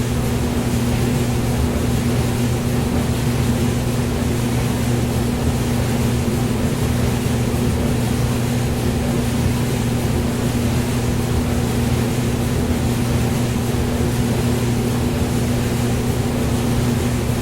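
Hair dryer running steadily: a continuous even rush of air with a low motor hum underneath, used as white noise for sleep.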